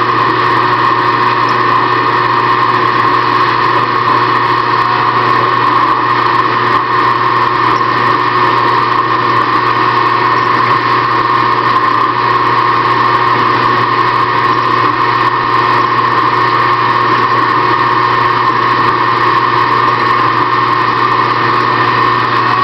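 Benchtop machine tool running steadily while drilling out aluminium, a constant motor whine with a low hum underneath.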